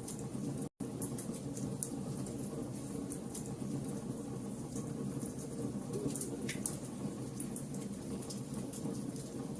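Fire burning with a steady low rush and scattered sharp crackles and pops, broken by a split-second gap of silence just under a second in.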